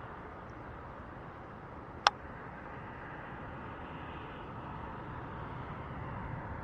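Steady low hiss of outdoor ambience on the water, with one sharp click about two seconds in.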